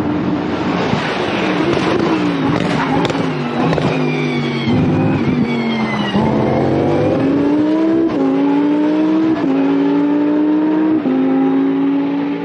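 Lamborghini Essenza SCV12's naturally aspirated V12 race engine at high revs. The pitch falls over the first six seconds as the car slows, then climbs again with several sharp steps, the gear changes as it accelerates.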